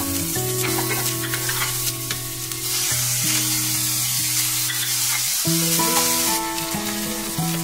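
Chopped onion, garlic and tomato sizzling in a stainless steel frying pan while a wooden spatula stirs and scrapes them around. Background music plays underneath.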